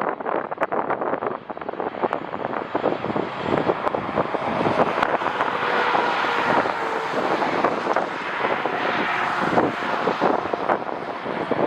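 Jet airliner passing, its engine noise swelling through the middle and fading again, with strong wind buffeting the microphone throughout.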